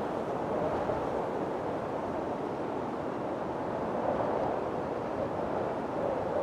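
Strong wind blowing steadily, a rushing noise that swells a little about four seconds in.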